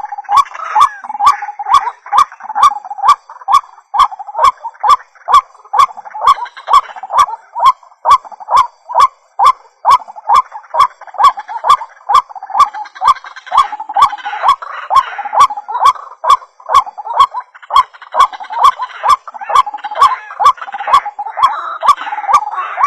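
White-breasted waterhens calling over and over in a fast, rhythmic run of croaking calls, the ruak-ruak used as a lure recording to draw the birds in. A sharp click repeats evenly, about two to three times a second, throughout.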